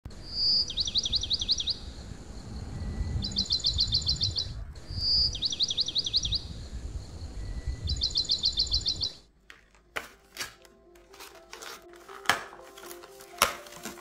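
Small bird singing: a short whistled note followed by a fast trill, alternating with a quicker trill every couple of seconds, over a low rumbling noise. About nine seconds in it cuts off and gives way to sharp clicks and taps of plastic fruit containers being handled, with faint music tones.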